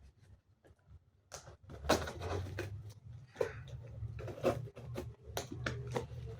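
A cardboard box being worked open by hand: irregular scrapes, knocks and clicks of cardboard, starting about a second in, over a low hum.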